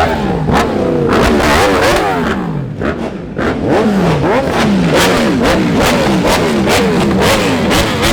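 Car engine being revved hard, pitch rising and falling over and over, two or three revs a second, with sharp pops mixed in. It is loud.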